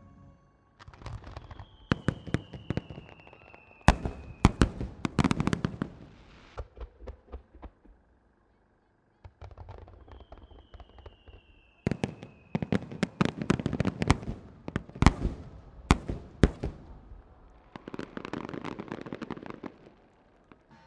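Japanese aerial fireworks, starmine barrages: two volleys of rapid sharp bangs, each opening with a long falling whistle, with a brief break between them. The second volley ends in a dense rushing crackle.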